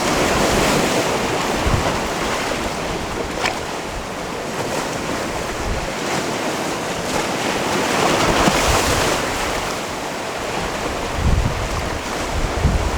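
Sea waves washing in and out over a stony shore, swelling at the start and again about eight seconds in. Wind buffets the microphone with low rumbles near the end.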